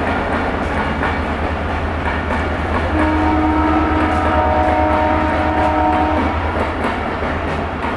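Passing train running close by with a steady rumble; from about three seconds in, its horn sounds one long steady note lasting about three seconds.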